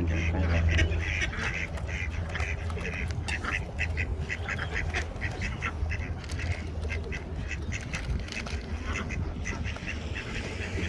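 Ducks quacking, a steady stream of short calls overlapping one another, over a steady low hum.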